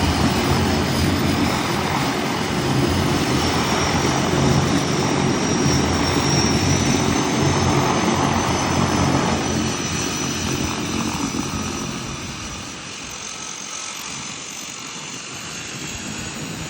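Twin Pratt & Whitney PT6A turboprops of a DHC-6-300 Twin Otter under power: a steady propeller drone with a thin high turbine whine over it. The sound fades after about ten seconds as the aircraft draws away.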